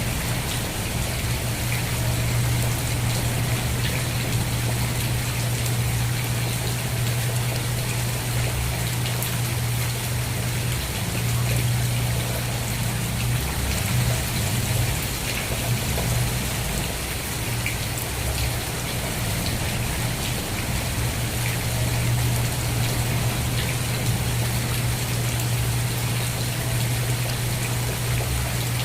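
Steady rain falling, with a dense patter of individual drops and a constant low rumble underneath.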